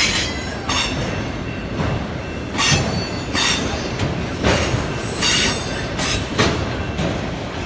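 Union Pacific mixed freight train's cars rolling past, with a steady rumble and repeated high-pitched wheel squeals about every second.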